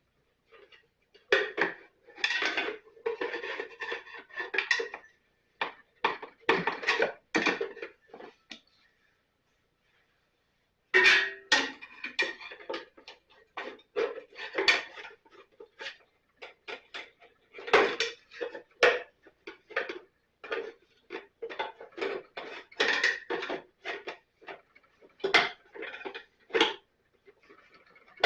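Metal tools and parts clinking and clattering in irregular runs of sharp clicks, with a pause of about two seconds partway through.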